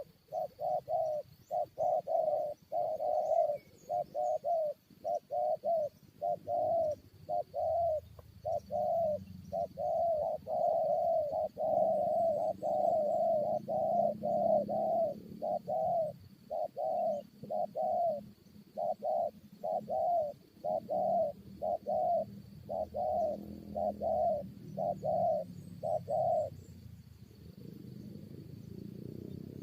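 Spotted doves (tekukur) cooing over and over in a fast, unbroken run of short coos, the challenge calling between a decoy and a wild dove; the calling stops near the end.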